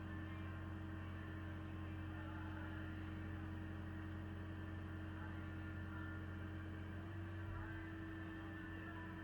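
Engine of a Mecalac excavator running steadily, with a slight change in its pitch about seven seconds in.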